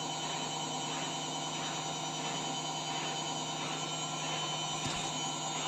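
Ariston washing machine in its spin cycle: the drum spins fast with a steady motor hum and a soft swish that repeats about twice a second.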